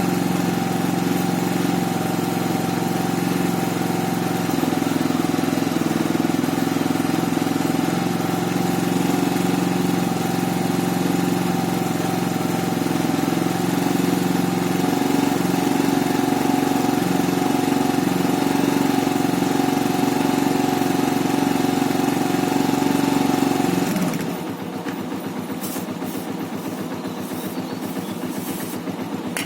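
A motorcycle's single-cylinder engine running steadily, as when the rear wheel and chain are kept turning for cleaning. About three-quarters of the way through, the sound drops and settles into a quieter, quicker pulsing.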